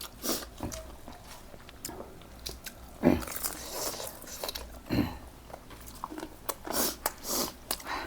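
Close-up eating sounds: irregular crunchy bites and chewing, with two louder bites about three and five seconds in.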